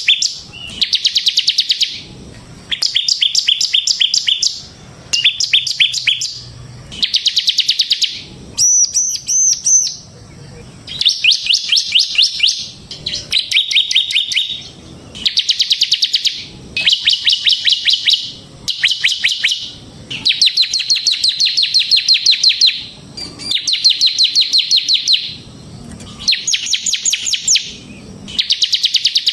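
Bar-winged prinia (ciblek, 'semi' type) singing in its 'ngebren' style: loud, fast chattering trills a second or two long, repeated about sixteen times with short pauses. About nine seconds in there is one higher, different phrase.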